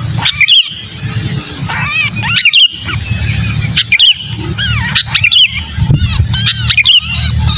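Sooty-headed bulbul giving harsh distress calls, as a bird does when caught or pinched, in bursts of squawking, bending notes every second or two over a steady low hum. It is a lure call to draw other bulbuls down.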